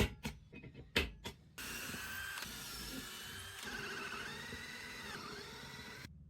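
A few sharp knocks, then a small electric power tool runs for about four and a half seconds, its motor whine dipping and rising in pitch under changing load, and cuts off suddenly near the end.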